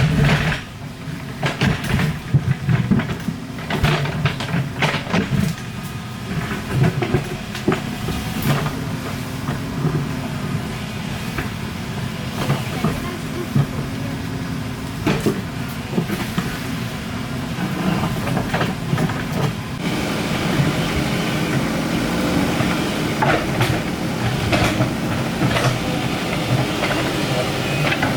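Excavator's diesel engine running steadily, with repeated sharp clanks and knocks from the machine at work, thickest in the first few seconds.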